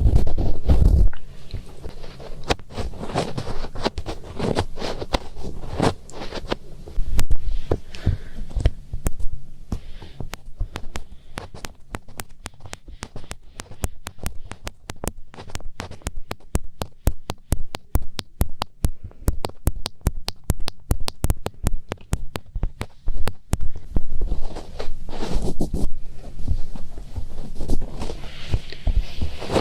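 Fingertips rubbing and scratching inside a binaural microphone's ears: close crackling scrapes with deep muffled rumbles, and a long stretch of rapid sharp clicks in the middle.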